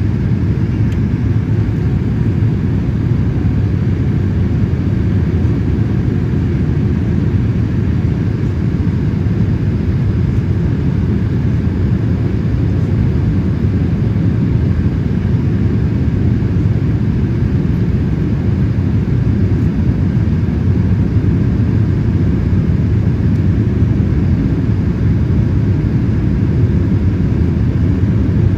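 Steady low cabin rumble of a Boeing 787-8 in flight, engine and airflow noise heard from a passenger seat, unchanging throughout.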